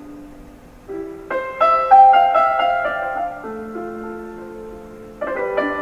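Soft piano music: calm phrases of ringing notes, with a new run of notes about a second in and another near the end.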